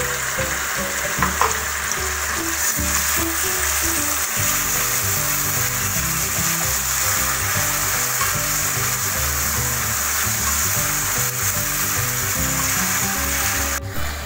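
Onion slices and tomato pieces sizzling in hot oil in a metal kadai, stirred with a spatula, with a sharp knock about a second in. Soft background music plays underneath.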